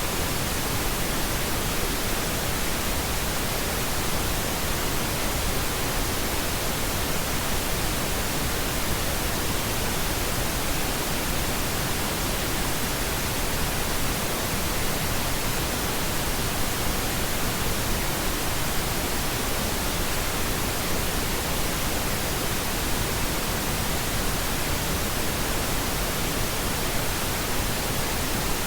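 Steady pink noise: an even, unchanging hiss spread across all pitches, with no other sound.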